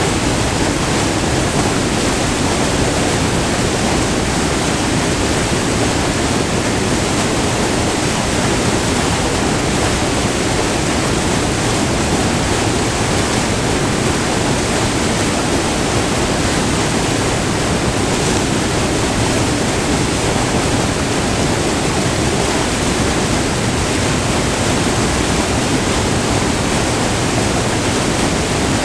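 Multi-tiered waterfall, white water pouring over rock in a steady, unbroken rush heard up close.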